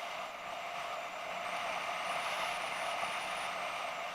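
BMW F650GS motorcycle riding along: steady engine and wind noise, picked up by an action camera mounted on the bike.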